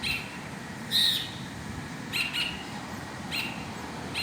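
A songbird known in Brazil as the 'primavera' giving short, high whistled calls about once a second, with a quick pair just past the middle and the loudest call about a second in. This is the bird known for mimicking hawks and the great kiskadee (bem-te-vi).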